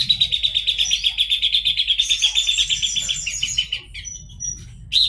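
Horsfield's babbler singing a fast, rattling trill that runs for about three and a half seconds. A brief high note follows, then a new trill begins near the end.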